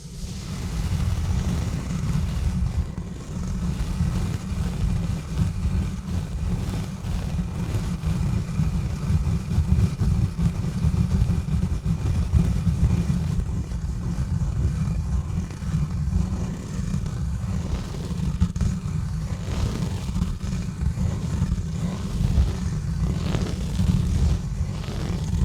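Exfoliation gloves rubbing and scratching directly on a bare microphone: a continuous, heavy low rumble with a fast, rough scraping texture over it.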